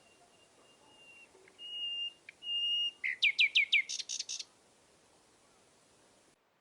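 A songbird singing: two held, pure whistled notes, then a quick run of about five falling notes and a short buzzy phrase.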